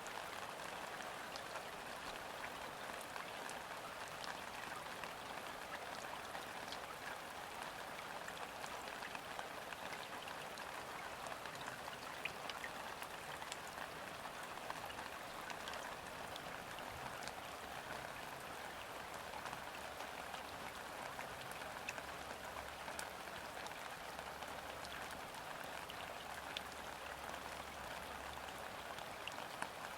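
Gentle, steady rain falling onto a river's surface: a dense, even patter with scattered individual drops ticking through it.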